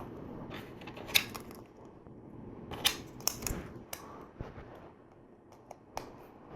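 LEGO plastic pieces being handled and pressed together, with a handful of sharp, irregular clicks over quiet rustling.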